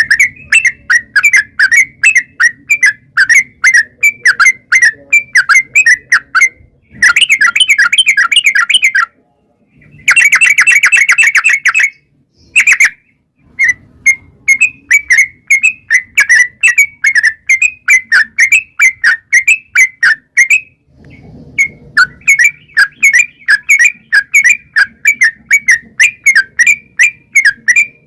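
Yellow-vented bulbul (trucukan) singing a long, loud run of short chirping notes, about four a second, twice breaking into a fast rolling trill, the 'ropel', about seven and ten seconds in.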